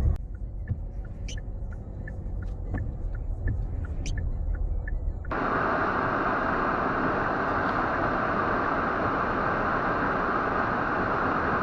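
Car driving in a snowstorm, heard from inside the cabin: a low road rumble with scattered light ticks, then about five seconds in it switches abruptly to a loud, steady rushing noise.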